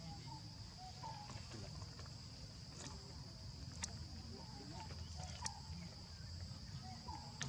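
A steady, high insect drone, like crickets or cicadas, with short chirping calls repeated every second or so and a few sharp clicks.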